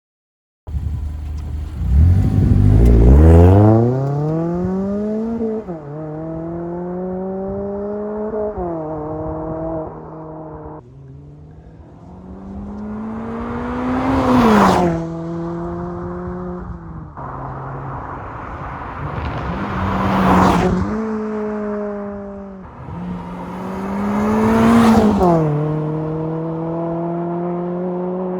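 ND Mazda MX-5 Miata's four-cylinder engine through a Good-Win Racing RoadsterSport Race axle-back muffler: one hard acceleration with the exhaust note rising steeply, then three drive-bys, each rising in pitch and loudness as the car approaches and dropping sharply as it passes. The passes are cut together, each ending abruptly.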